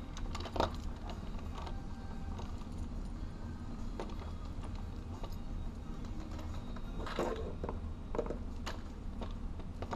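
Handling noise of stiff copper wire being worked into a small plastic wiring fixture: scattered light clicks and scrapes, the sharpest about half a second in and again around seven and eight seconds, over a steady low room hum.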